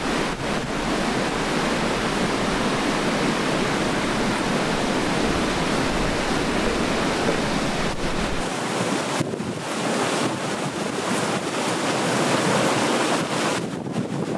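Waterfall rushing in a steady wash of water noise, with low wind rumble on the microphone that drops away about eight seconds in.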